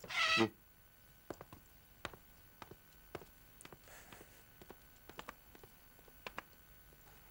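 A pet bird gives one short, high-pitched squawk, followed by a scattering of faint, irregular clicks and taps.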